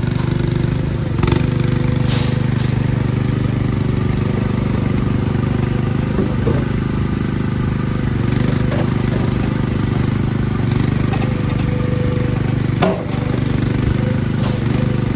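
Tracked skid steer loader's engine running steadily, with a few short clanks, about a second in, near the middle and near the end.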